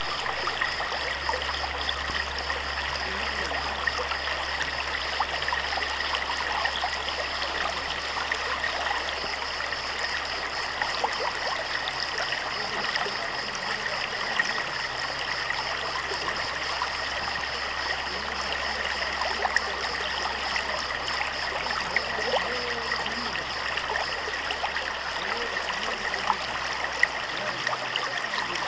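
Natural stream flowing steadily, water rushing and trickling without pause, with a steady high-pitched note running under it.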